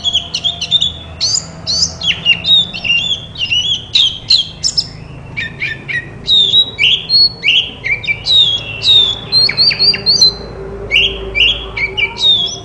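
Oriental magpie-robin singing without pause: a fast, varied run of short whistled notes and chirps, many sliding down in pitch.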